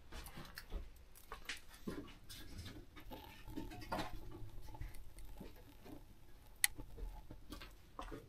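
Faint, scattered knocks and scrapes of split firewood being laid into the firebox of a wood-burning hot-air furnace, with one sharper click about six and a half seconds in.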